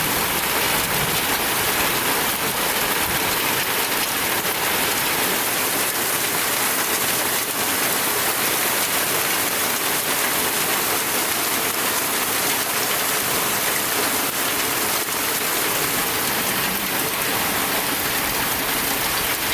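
Steady heavy rain falling: a dense, even hiss that holds at the same level throughout.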